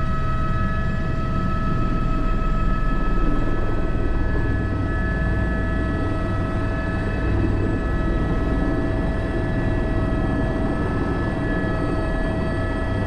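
Airbus H125 (AS350 B3) single-turbine helicopter in flight, heard from the cockpit: a steady turbine whine made of several constant high tones over the rumble of rotor and engine.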